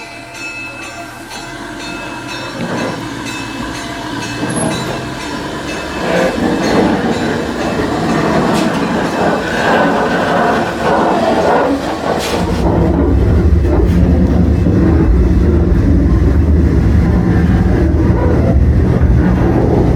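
Narrow-gauge visitor train running on the rails, pulled by a 1928 Plymouth gasoline locomotive, its wheels clattering over the track. The sound grows steadily louder, and a deep, steady rumble joins about twelve seconds in.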